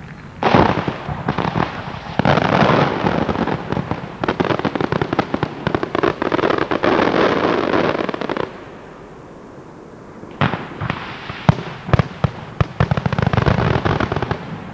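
Professional fireworks display: a dense barrage of bangs and crackling from aerial bursts for about eight seconds, a lull of about two seconds, then another run of sharp bangs and crackle.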